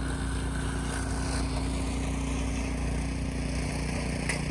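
Gasoline snow blower engine running steadily at a constant pitch.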